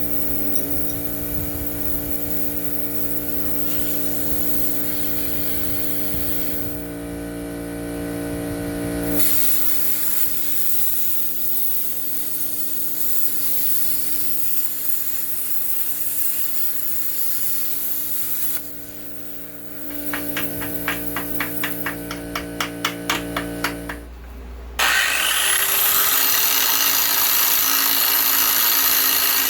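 Shop tool work: a run of quick, regular strokes of a hand tool on metal, then about 25 seconds in a power tool spins up and runs with a steady whine.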